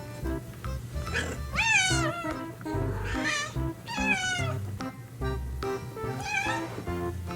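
Domestic cat meowing about four times, each call rising and then falling in pitch, over background music.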